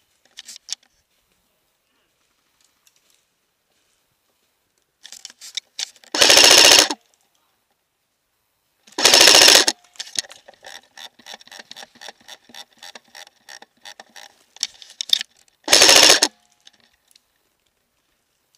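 Electric airsoft gun firing three short full-auto bursts, each under a second: one about six seconds in, one about nine seconds in and one near sixteen seconds. Sharp clicks come between the bursts, thickest after the second.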